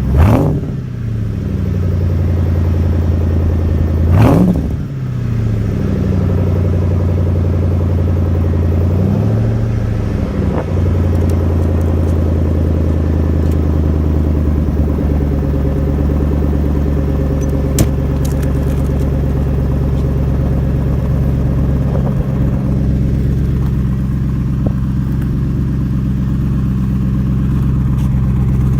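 Mercury Grand Marquis 4.6 L V8 with a muffler delete, cold from a cold start: the throttle is blipped sharply twice in the first few seconds and once more lightly about nine seconds in, each rev rising and falling quickly, then the engine settles into a steady idle.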